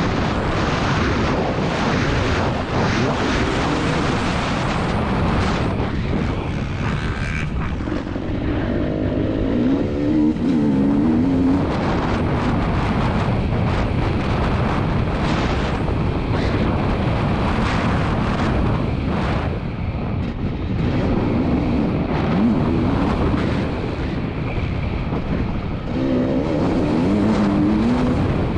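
2022 KTM 300 TPI two-stroke dirt bike engine being ridden hard, its pitch rising and falling again and again as the throttle is opened and closed.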